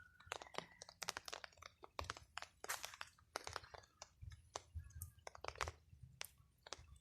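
Faint, irregular clicks and crackles, with a few soft low thumps about four to six seconds in.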